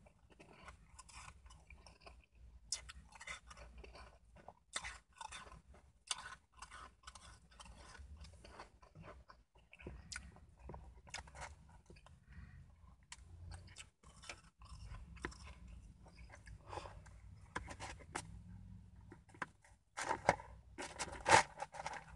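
Shaved ice being bitten and chewed, a run of irregular crunches that grow denser and louder in the last couple of seconds.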